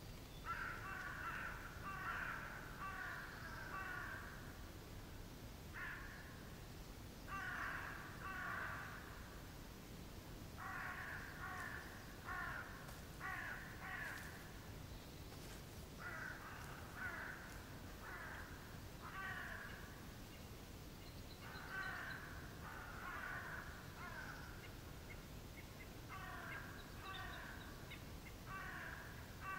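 Birds calling in clusters of short, repeated calls, several a second, with pauses of a second or two between the clusters.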